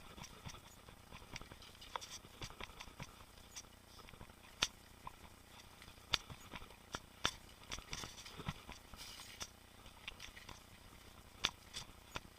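Mountain bike clicking and rattling over rough trail: irregular sharp clicks and knocks, some much louder than others, over a faint steady background.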